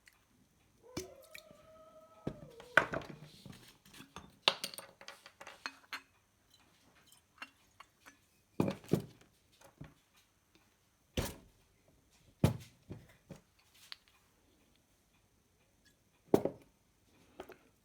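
Small tools and objects handled on a workbench while a freshly soldered circuit board is cleaned with thinner: scattered clinks and knocks, about a dozen, with a brief pitched squeak about a second in.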